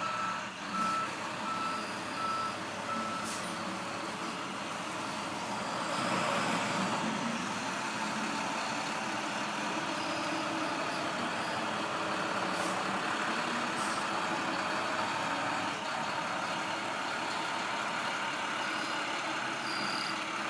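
Snowplow truck's reversing alarm beeping about five times, then the truck running steadily as it spreads salt, louder from about six seconds in.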